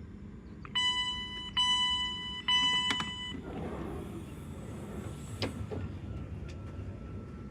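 Three loud warning tones from a train, all at the same pitch and each just under a second long, sounded in quick succession. A rushing noise and a faint steady whine follow.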